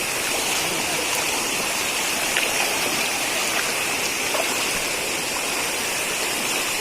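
Floodwater flowing and rushing: a steady, even rush of water.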